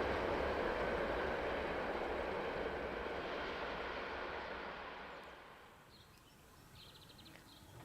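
A passing train's rolling noise on the railway fading away, dying down to near quiet about six seconds in.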